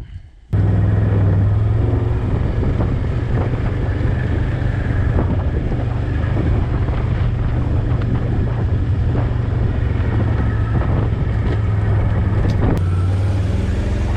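ATV engine running steadily under way, with a strong low hum; it starts abruptly about half a second in.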